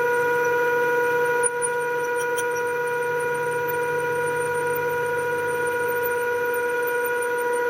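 Milling machine cutting into a lathe tool, a steady high-pitched whine with overtones from the cutter working the hard tool steel, dipping slightly about a second and a half in.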